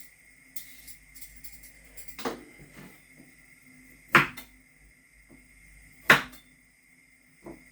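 Kitchen handling noises: three sharp knocks about two seconds apart, with fainter clicks and taps in between.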